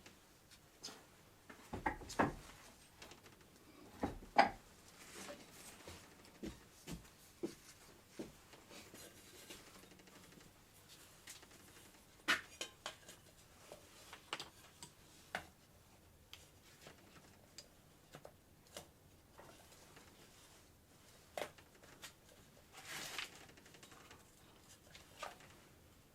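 Scattered clicks and knocks of small objects being handled, with a few louder knocks about 2, 4 and 12 seconds in.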